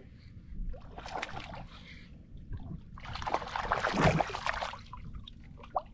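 Water splashing and sloshing around a kayak in two spells: a short one about a second in and a longer, louder one about three seconds in.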